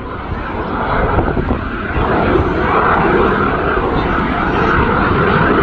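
Aircraft flying overhead: a dense engine noise that grows louder about two seconds in and stays loud.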